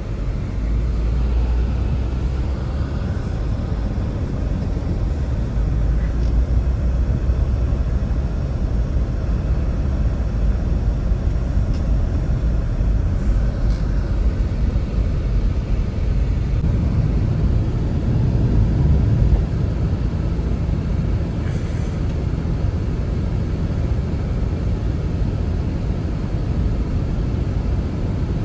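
Strong blizzard wind blowing steadily as a low, loud rumble, with a few faint clicks or ticks over it.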